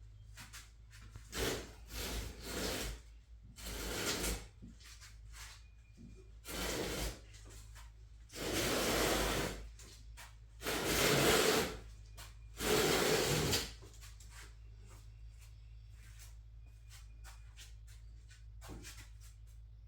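Wooden shipping crate being turned and shifted on the floor: scraping and rubbing of wood in about seven separate pushes of a second or so each, the longest three near the middle.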